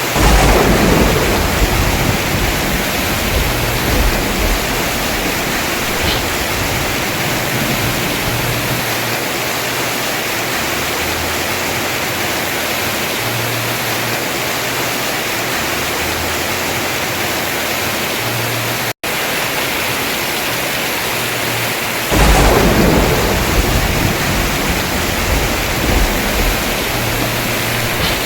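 Heavy rain pouring steadily on a house roof, with two claps of thunder: one right at the start and another about 22 seconds in, each rumbling on for several seconds. The sound cuts out for a split second about 19 seconds in.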